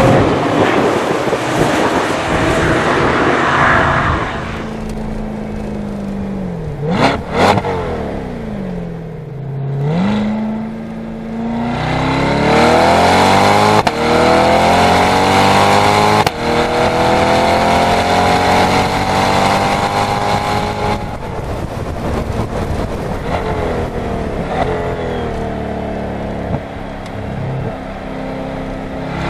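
Chevrolet C8 Corvette Stingray's V8 at speed on a race track. The engine note dips and climbs again about a quarter of the way in, then rises hard through the gears, with quick upshifts about halfway and two-thirds of the way through, and climbs once more at the end.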